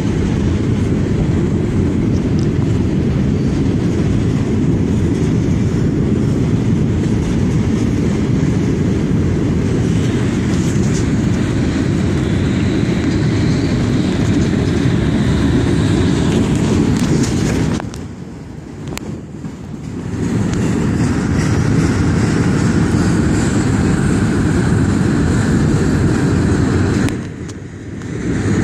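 Freight train cars rolling past close by on the rails with a steady, loud low rumble. The rumble drops away briefly about two-thirds of the way through and again near the end.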